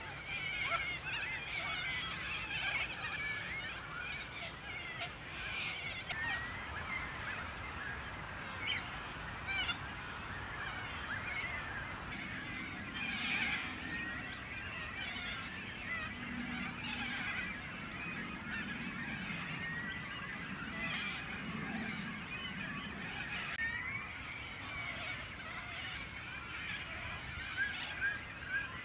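Many birds calling at once: a busy mix of chirps, whistles and short rising notes, with lower honk-like calls from about twelve seconds in.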